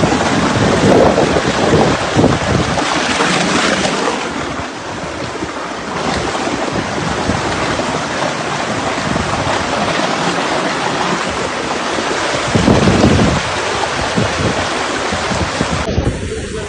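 Rushing water, a steady loud wash of noise, with wind buffeting the microphone.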